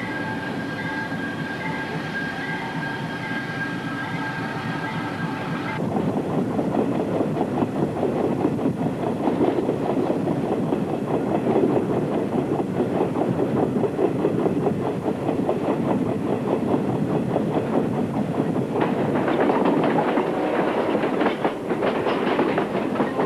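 Diesel-hauled passenger train: for the first six seconds a steady high whine rides over the rumble of the passing train, then the sound switches abruptly to riding aboard the coaches, wheels clattering and rattling over the track, louder near the end.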